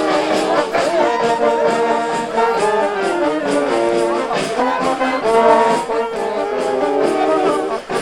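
Brass band music: trombones and trumpets playing a melody in sustained notes.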